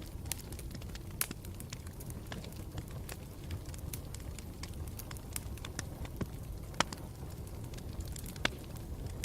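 Campfire burning with a steady low rumble and irregular sharp crackles. Two louder pops come near the end.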